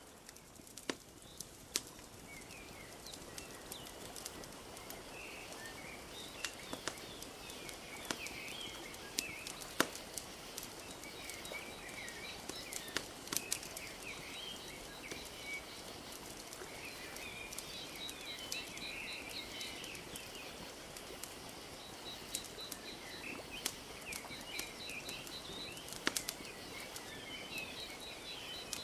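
Wood fire crackling with frequent sharp pops over a steady wash of lapping lake water, while small birds chirp and trill throughout.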